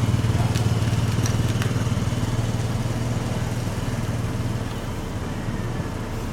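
A motor running steadily with a low hum, easing off a little near the end, with a few faint clicks about a second in.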